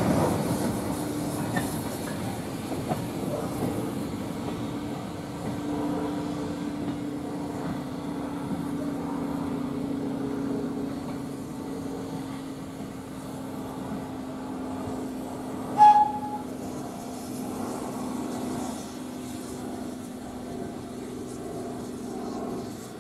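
Slow goods train of wagons and a brake van running away along the track, its wheels rolling over the rail joints and fading as it goes, with a steady low hum underneath. About sixteen seconds in comes one brief high whistle.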